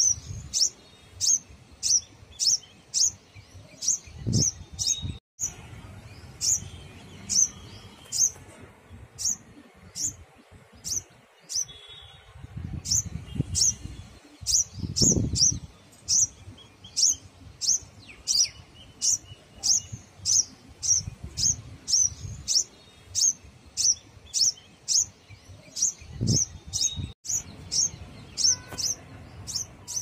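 A sunbird calling: a steady run of short, sharp, high chirps, about two a second, with brief pauses. A few low thumps sound under the calls.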